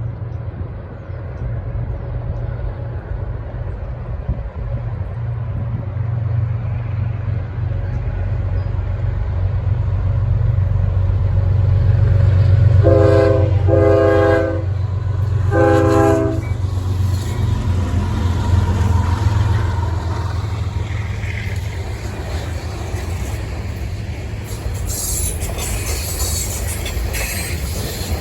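Approaching diesel freight locomotive with a deep engine rumble that builds, sounding its multi-chime air horn three times about halfway through: two blasts close together, then a third. Near the end the clatter of passing rail cars comes in.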